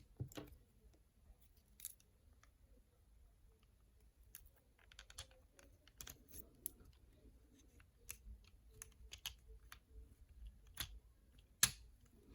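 Faint, scattered plastic clicks and taps as a toy action figure is worked loose from its plastic packaging tray, with one sharper click near the end.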